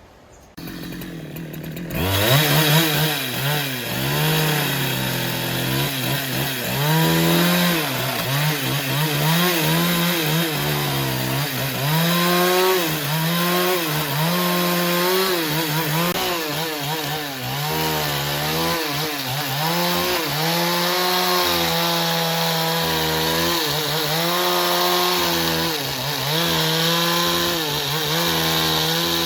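Chainsaw cutting through wood at high revs. It comes in loud about two seconds in, and its engine pitch dips and recovers over and over as it cuts.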